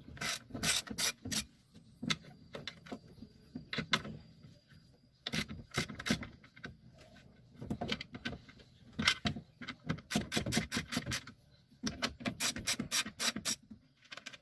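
Hand tools clicking and scraping against metal in irregular bursts of quick clicks with short pauses between them.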